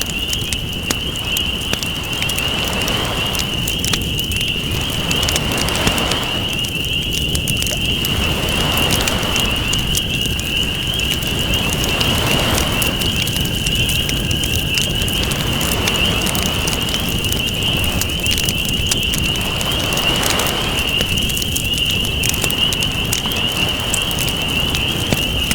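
Wood fire crackling with many small sharp pops, over ocean waves washing in and out every few seconds. A steady high-pitched whine sits on top of the mix.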